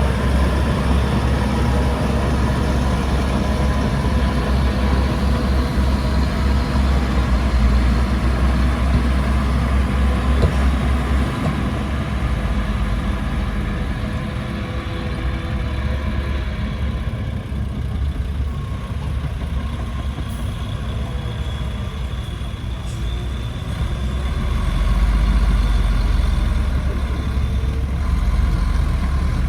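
Heavy diesel earthmoving machinery running with a deep, steady rumble. It eases about a third of the way in and swells again near the end.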